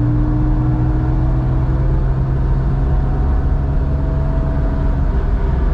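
1987 Porsche 911's air-cooled 3.4-litre flat-six running steadily through a two-into-one-out muffler while the car is driven, its engine note rising slightly over the first few seconds and then holding.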